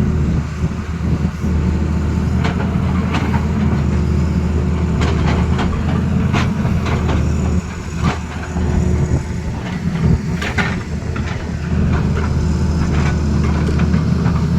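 Excavator's diesel engine running steadily, with scattered irregular knocks and clanks.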